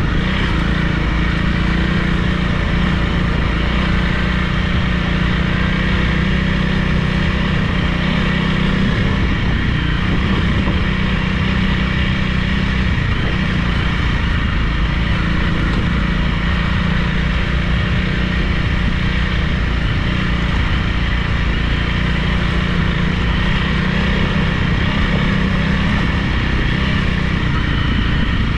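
Honda CRF300 Rally's single-cylinder four-stroke engine running at a steady, even pace while the bike is ridden.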